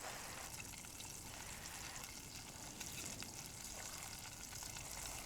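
Food frying in a pan: a faint, steady sizzle with small scattered crackles.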